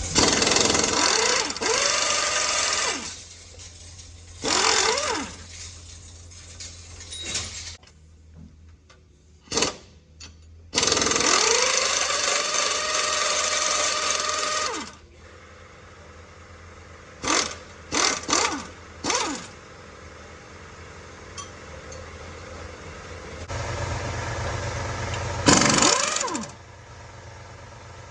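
Air impact wrench run in bursts, some lasting several seconds and some short blips, each with a hissing air rush and a whine that drops in pitch and then holds steady. A steady low hum runs underneath.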